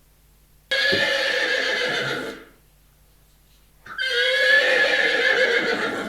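A horse neighing twice, each call lasting about two seconds with a short pause between.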